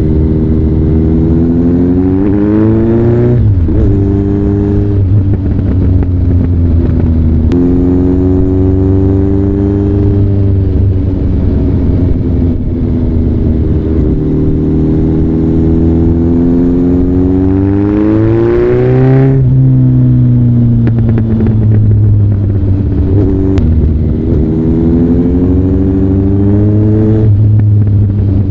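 Kawasaki ZRX1200DAEG's inline-four engine running through a Nojima exhaust. The revs climb and then drop sharply twice, about three seconds in and again past the middle, with smaller rises and falls in between.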